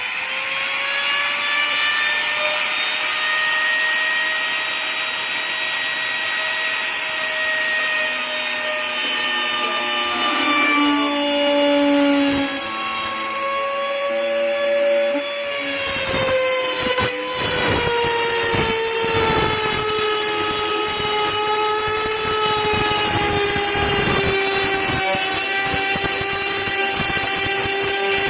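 Handheld wood router running with a steady high whine; about halfway through it starts cutting, a rough grinding-rasping noise over a slightly lower motor pitch, as the bit is pushed round the circle jig to cut a speaker hole in the box panel.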